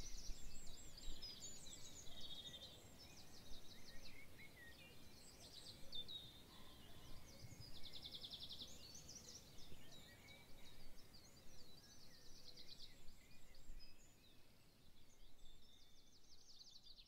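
Several songbirds chirping and whistling, one repeating a fast rattling trill every few seconds, over a faint low background rumble.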